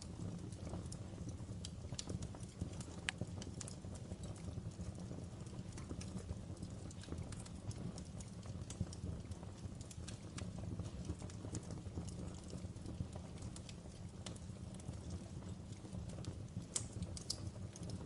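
Wood logs burning in a fireplace: irregular sharp crackles and pops over a steady low rumble of flame.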